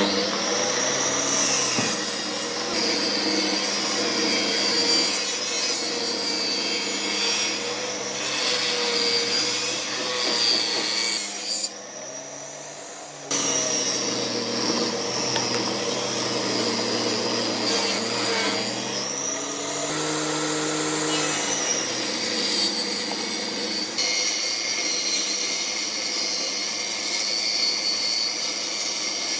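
A power tool working wood: a motor running steadily with the scraping, rasping noise of the cut. The sound drops away briefly about twelve seconds in and changes abruptly twice later on.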